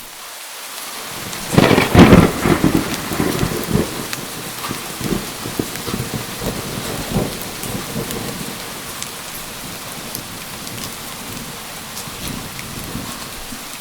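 Steady rain falling, with a thunderclap about a second and a half in whose crack and rolling rumble fade out over the next several seconds.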